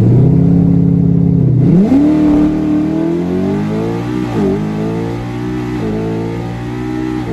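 Race car engine accelerating hard at full throttle down a drag strip. Its pitch climbs, holds briefly, jumps up again, then keeps rising with three quick dips about a second and a half apart as it shifts up through the gears.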